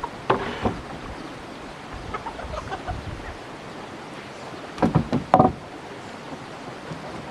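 Poultry calling on and off over a steady hiss, with short louder sounds just after the start and again about five seconds in.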